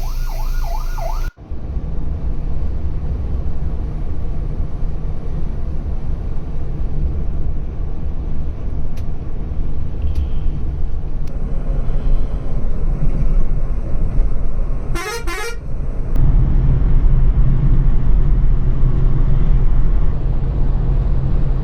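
Steady low rumble of a Scania multi-axle coach running on the road. A vehicle horn sounds once for about a second some fifteen seconds in, and the rumble grows louder just after. A brighter sound cuts off abruptly about a second in.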